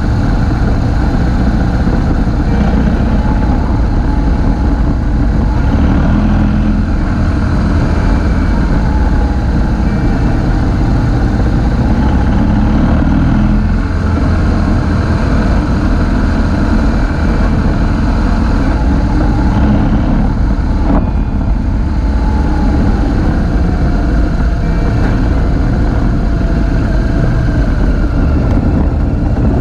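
Motorcycle engine running steadily while riding, loud and low-heavy, with small rises and falls in engine pitch.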